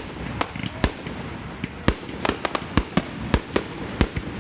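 Aerial fireworks bursting in quick, irregular succession, about two or three sharp bangs a second.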